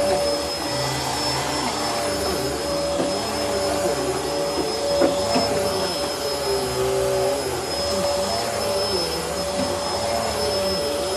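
Bissell Helix vacuum cleaner running steadily, its motor giving a constant whine over the rush of air.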